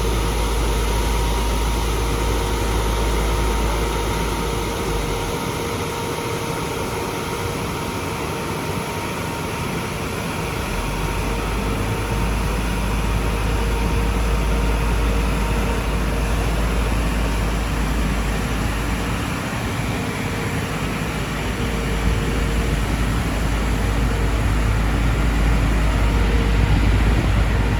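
Engines of heavy asphalt-paving machinery running steadily: a deep rumble under a faint steady hum, with no distinct knocks or bangs.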